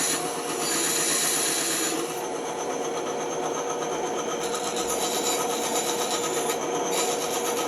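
Bandsaw running with a steady hum while its blade cuts through wood, a rasping hiss that is stronger for the first couple of seconds and again near the end.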